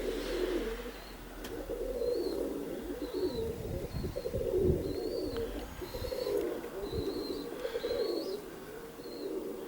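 Domestic pigeons cooing over and over in low, pulsing calls, with faint high chirps scattered through.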